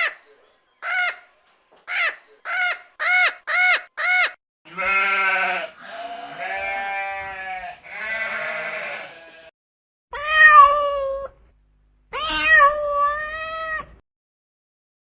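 A cat meowing in a quick run of seven short meows, followed by long, drawn-out bleats from sheep, three of them, and then two more long calls near the end.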